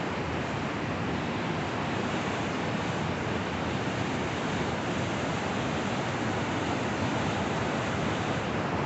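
Steady rushing noise of a fast, turbulent river in flood, a constant dense wash of water sound with no breaks.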